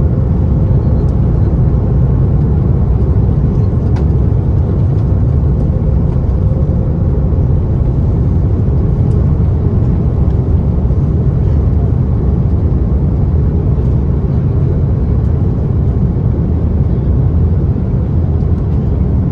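Steady, loud low rumble inside the cabin of an Airbus A330-900neo airliner, with a faint steady hum that fades out about seven seconds in.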